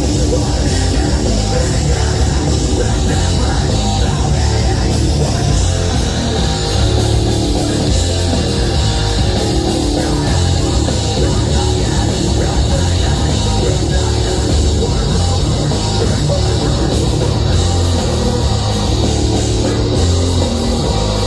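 A live heavy metal band playing loudly without a break: distorted guitars and bass over a drum kit, with heavy low end.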